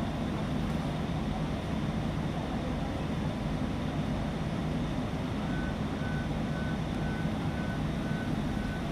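Fire truck engine running with a steady low drone. From about halfway through, a high electronic beep repeats about twice a second.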